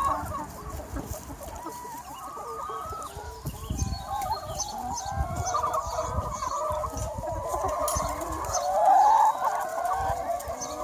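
A large free-range flock of hens clucking and calling over one another in a continuous chorus, swelling loudest near the end.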